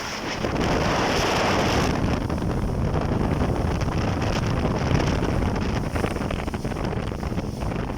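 Heavy wind buffeting the microphone over the rush of water and a boat motor, as on a moving jet ski at sea; steady throughout, with a louder hiss in the first two seconds.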